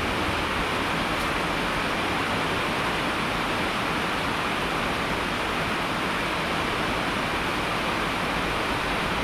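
Steady heavy rain, an even rushing hiss with no single drops or breaks standing out.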